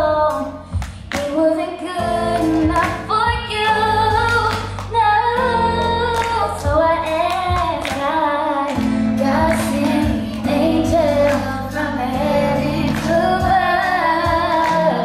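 A female voice singing a slow song over a backing track with sustained bass and drum hits.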